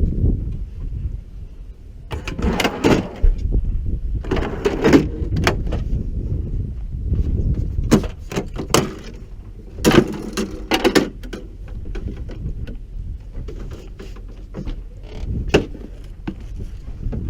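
Clunks, knocks and scraping rattles of equipment and doors being handled, several sharp knocks standing out, over a steady low rumble.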